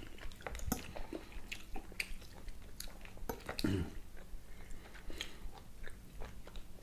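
Close-miked chewing of grilled beef steak: many small, irregular wet mouth clicks.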